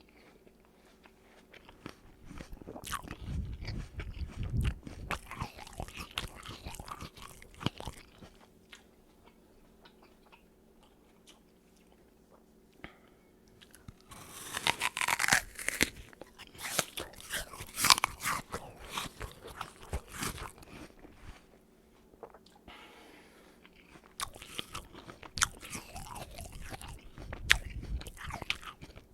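Close-up crunching and chewing of a raw apple: bouts of crisp crackly chewing that come and go, with quiet pauses between mouthfuls.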